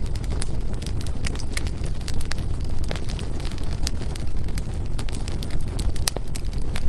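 Firewood burning in a fireplace, a steady low roar of flames with frequent sharp crackles and pops at irregular intervals. One of the loudest pops comes about six seconds in.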